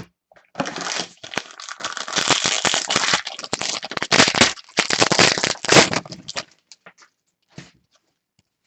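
The wrapper of a Panini Prizm basketball card pack being torn open and crinkled. It is a dense crackling that lasts about six seconds and stops fairly suddenly, with one faint rustle afterwards.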